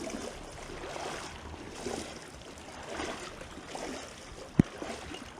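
Steady rush of flowing river water, with one sharp knock a little past four and a half seconds in.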